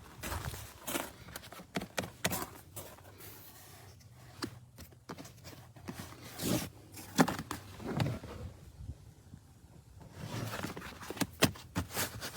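Irregular knocks, scuffs and scrapes of rubber floor mats being handled and pushed into place, with some footsteps.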